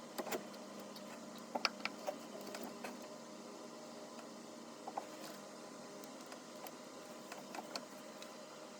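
Scattered light clicks and knocks, a small cluster about two seconds in and a few more later, over a steady hum.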